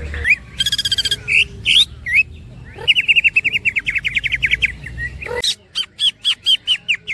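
Cucak ijo (green leafbird) singing: a buzzy note and a few chirps, then a fast run of repeated down-slurred whistles at about ten a second, and near the end a slower series of the same notes.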